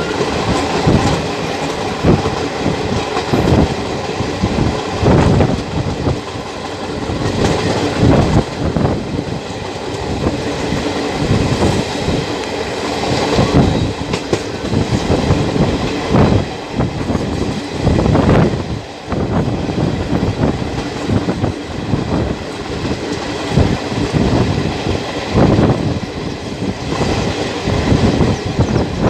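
Passenger train running along the line, heard from one of its own coaches: the steady rumble of wheels on rails with repeated clickety-clack over the rail joints.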